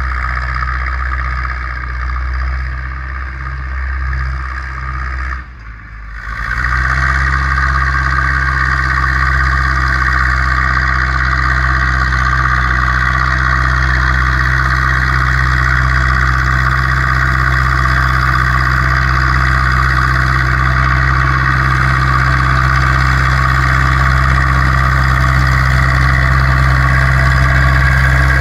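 Zetor 6245 tractor's four-cylinder diesel engine running steadily under the load of plowing. The sound dips briefly about six seconds in, then comes back louder and holds steady.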